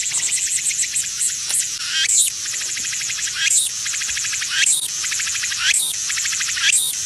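A dense, steady insect chorus, a fast high trill throughout, with a short swooping call repeating about once a second.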